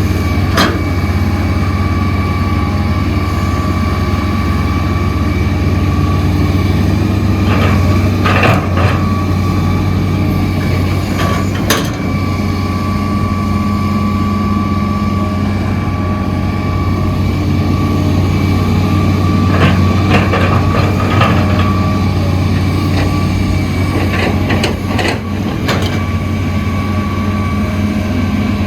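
Heavy diesel construction machinery running steadily, with a constant low drone and a steady whine. A few short sharp clanks sound over it.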